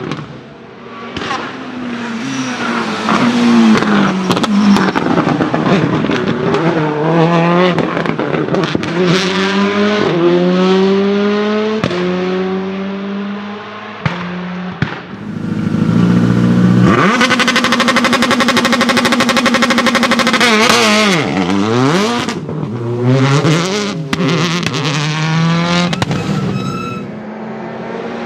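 Citroën Xsara WRC rally car's turbocharged four-cylinder engine accelerating hard, its revs climbing and dropping in steps through gear changes, with sharp pops and bangs from the anti-lag system. About halfway through, the revs are held high and steady for several seconds, then fall away sharply and climb again.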